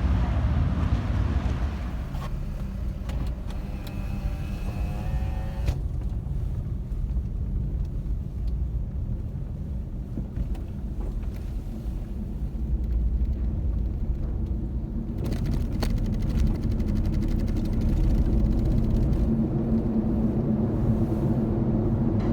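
Steady low engine rumble that grows louder, with a steadier hum, about two-thirds of the way through.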